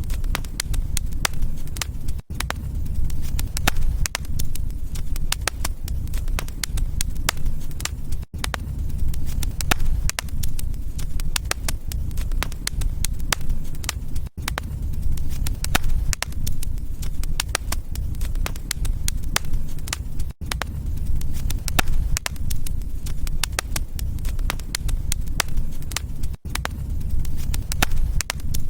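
Fire in a fireplace crackling steadily: a dense run of sharp pops and snaps over a low rumble of burning, cut by a very brief drop-out about every six seconds.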